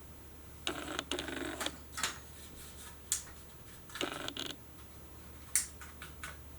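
A tripod being handled and adjusted: two stretches of creaking and scraping, each about a second long, with several sharp clicks of its locks and head in between.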